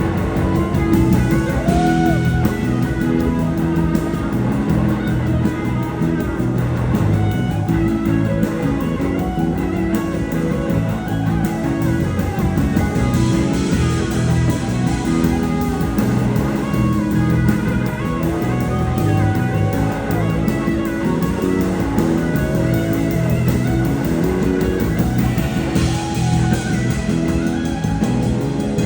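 Live band playing an instrumental passage led by guitar. A lead guitar line slides up and down between notes over the steady accompaniment.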